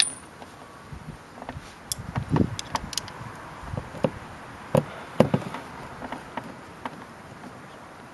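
Scattered light clicks, taps and knocks from handling screws and the plastic trim of a car door panel as it is refitted, over a faint steady hiss.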